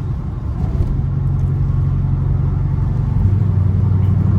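Dodge Scat Pack's 392 HEMI V8 engine and exhaust droning steadily while cruising, its low tone shifting and growing a little louder about three seconds in.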